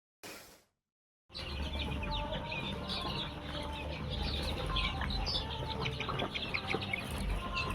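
A flock of desi chickens and chicks clucking and chirping, many short calls overlapping, starting about a second in, over a steady low hum.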